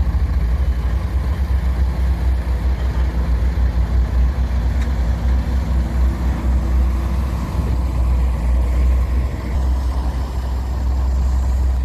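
Heavy diesel engine running steadily, with a deep, rapidly pulsing low throb.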